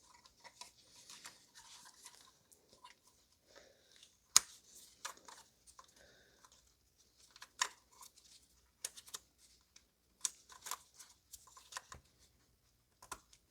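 Scattered sharp plastic clicks and light rustling as electrical connectors are pushed and snapped onto ignition coils, the loudest click about four seconds in.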